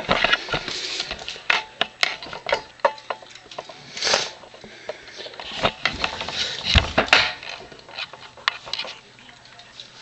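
A cat eating from its bowl: irregular crunching and small clicks and clinks against the bowl.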